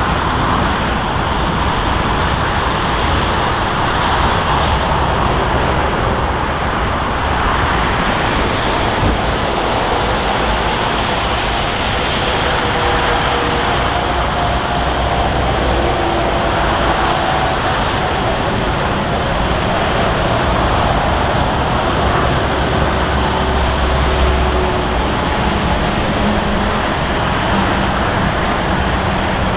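Jet airliner engines running, a loud, steady rush with a low rumble underneath and faint tones drifting through it.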